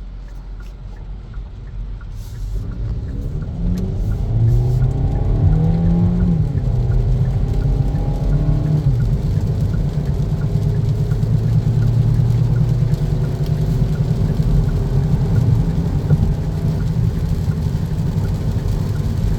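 Kia Niro hybrid's 1.6-litre four-cylinder engine heard from inside the cabin as the car accelerates, with road noise. The engine note rises over the first few seconds and then holds a steady drone at high revs, typical of the transmission not upshifting.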